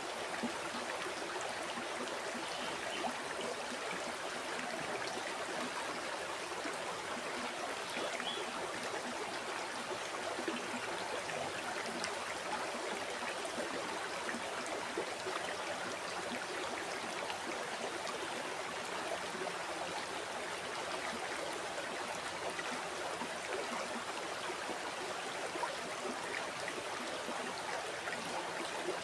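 A river flowing steadily: water running and burbling over stones, as an even wash of sound with small splashes and gurgles.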